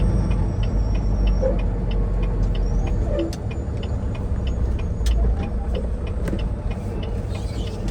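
Semi-truck engine running with a steady low rumble, heard from inside the cab while driving, with a fast, regular ticking over it.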